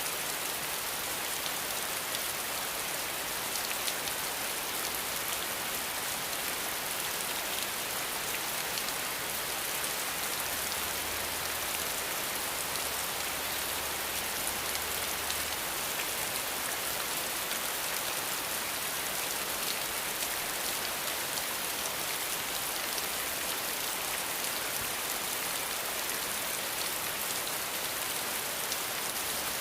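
Steady rain falling, an even hiss of many drops pattering down without let-up.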